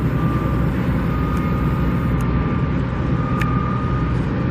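Steady rumble of passing road traffic, with no single sharp event.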